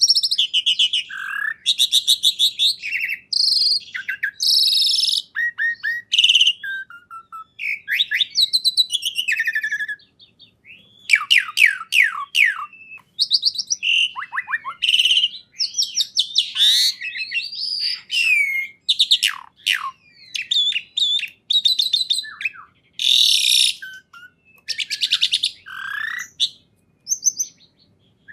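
A songbird singing a rapid, varied song of chirps, trills and quick downward whistled sweeps, phrase after phrase with only short breaks, and one longer pause about ten seconds in.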